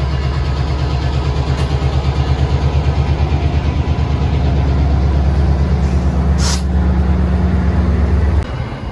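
Diesel train close by, its engine giving a loud, steady low throb with a pulsing beat. A short hiss of air comes about six seconds in, and the throb cuts off sharply near the end.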